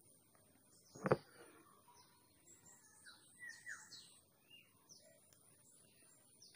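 Faint chirping of birds, many short high calls, several falling in pitch, with one sharp knock about a second in.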